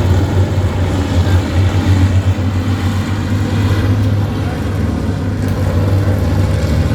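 Vintage stock car engine running steadily, with a low, even drone.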